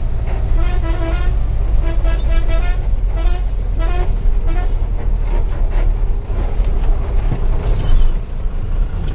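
Truck air horn blowing a string of short, wavering notes over the steady drone of the diesel engine, then only the engine. The horn sounds weak because two of its air pipes are leaking.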